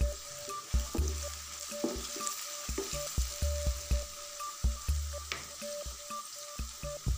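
Cut okra frying in hot oil in a wok, a steady sizzle, with background music's low bass notes and held tones underneath.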